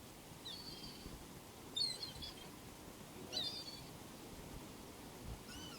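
Gulls giving short high-pitched calls, four brief bursts spaced a second or more apart, over a steady background hiss.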